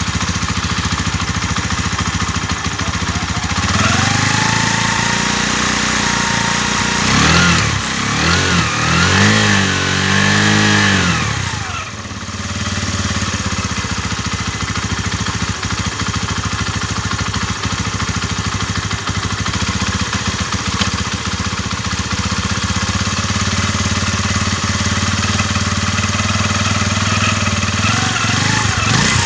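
RKS 150 Sports Evo motorcycle engine idling steadily, revved up and down several times from about four seconds in, then dropping back to a steady idle.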